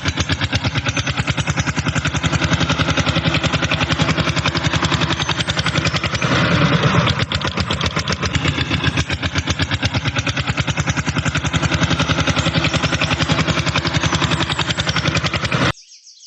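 Engine running at idle with a rapid, even chugging beat. It swells briefly about six seconds in and cuts off abruptly near the end.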